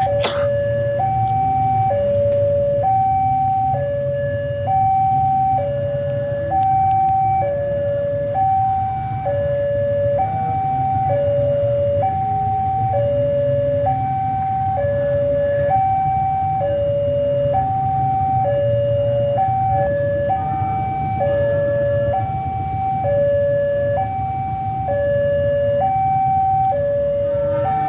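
Railway level-crossing warning alarm sounding a steady two-tone signal, a higher and a lower note alternating about once a second over a low rumble. It is the signal that a train is approaching the crossing.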